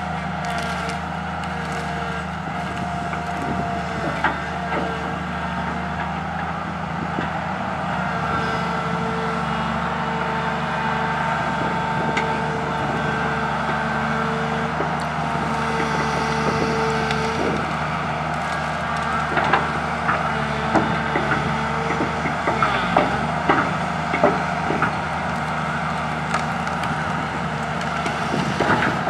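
Komatsu PC200 excavator's diesel engine running steadily under load, with a higher whine that comes and goes as it works. Scattered cracks and knocks of branches snapping and wood hitting the bucket and truck bed, most frequent in the last third.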